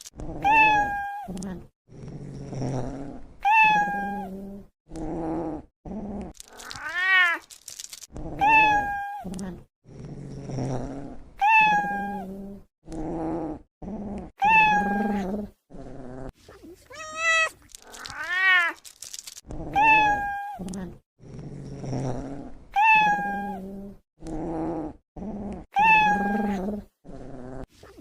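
Cat meowing over and over, about one call every second or two, some calls rising and falling in pitch, with lower, rougher sounds in between.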